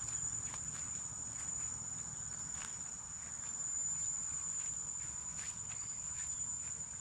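An insect's steady, unbroken high-pitched trill, with a few scattered faint ticks.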